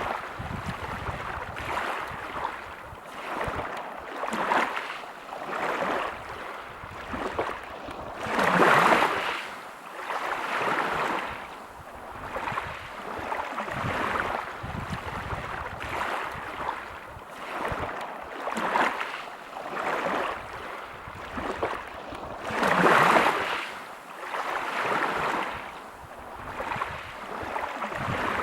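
Waves breaking on a pebble beach: a rushing hiss of water and stones that swells and fades every second or two, with two bigger waves, one about a third of the way in and another near the end.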